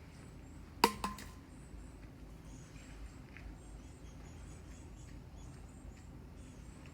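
Two sharp knocks close together about a second in, the first the louder, over a faint background of soft, short high chirps.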